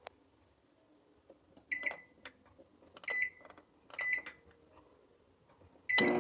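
Microwave oven keypad: buttons pressed with a click and a short beep each, four times over a few seconds. Right at the end the oven switches on and starts running with a steady hum.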